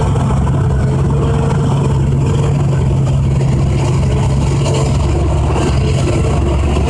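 Large diesel engine of heavy mining equipment running loud and steady at constant speed, with a strong low hum.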